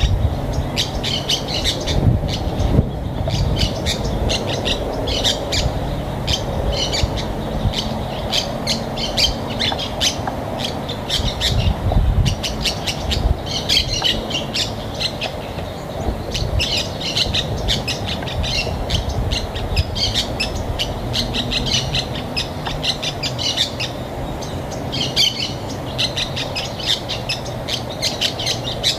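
Birds chirping and calling, many short high notes in quick clusters that come and go, over a steady low rumble.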